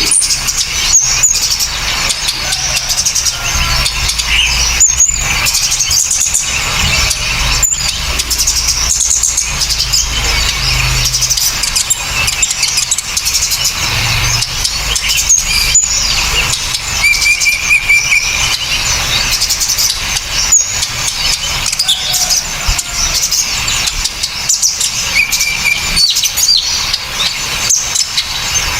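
A layered bird-song training track of several small birds calling at once: dense, rapid, sharp and harsh high-pitched chirps and short trills that run without a break, over a low hum.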